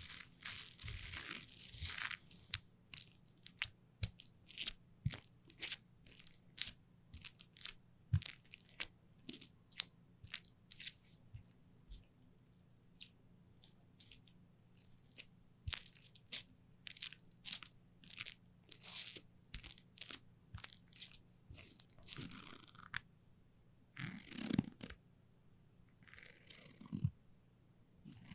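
Close-miked sticky ASMR sounds: sharp, irregular crackling clicks as something sticky is pressed and pulled away, with a few longer rustling passes near the end.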